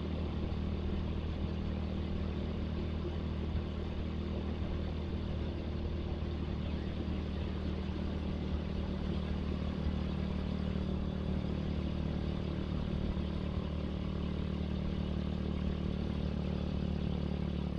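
Motorcycle engine, apparently the rider's Suzuki Satria FU, running at a steady, unchanging pitch.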